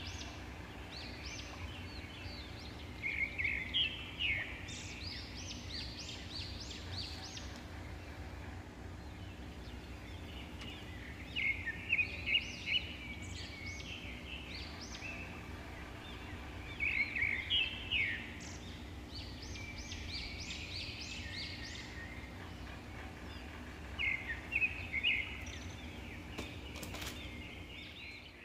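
Birds chirping in short bursts of rapid high notes, repeating about every six to seven seconds, over a steady low hum.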